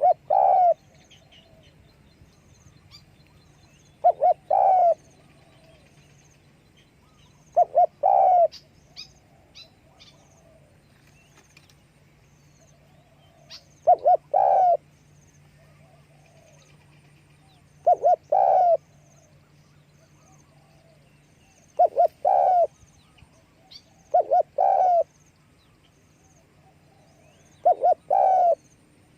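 Spotted dove cooing: eight phrases, each two short coos followed by a longer one, repeated every few seconds. A few faint high chirps of other birds come in around a third of the way through, under a low steady hum that stops about two-thirds of the way in.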